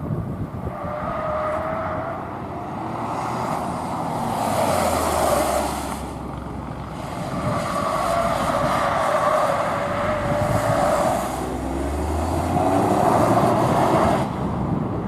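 A car's engine being driven hard through a gymkhana course, revving up in three strong surges and falling back between them as the car accelerates and slows.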